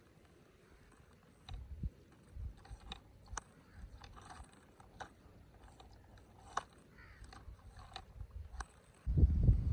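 Faint scattered clicks and taps, a few a second and irregular, with crows cawing in the distance. About nine seconds in, a much louder low rumble sets in.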